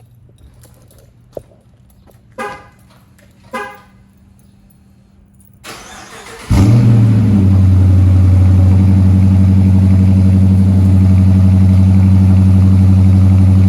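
A 2021 Dodge Charger R/T's 5.7-litre HEMI V8 is cold-started on its stock exhaust. After a click and two short beeps, the engine fires about six and a half seconds in with a brief flare, then settles into a loud, steady cold idle.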